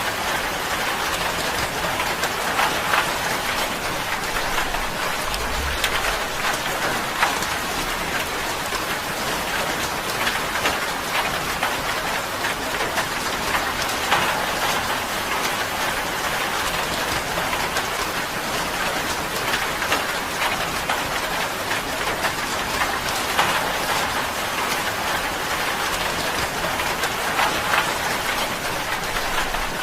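Steady rain falling on a tin roof, a dense, even patter of drops with sharper ticks scattered through it.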